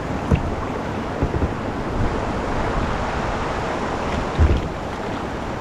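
River water rushing steadily over a shallow rapid and low-dam ledge, with wind buffeting the microphone and a few low thumps.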